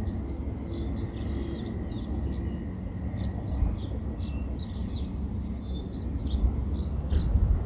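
Wind rumbling on the microphone, with small birds chirping in short, high notes many times over.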